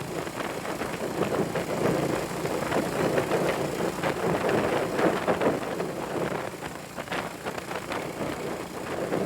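Classic motorcycle's engine running while riding, mixed with wind buffeting the microphone.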